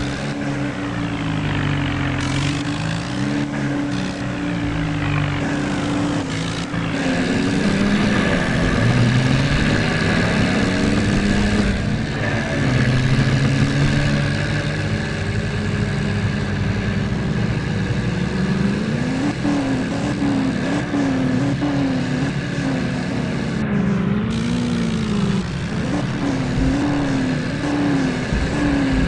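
Tractor diesel engines working under load, their pitch rising and falling over and over, with more than one engine heard at once.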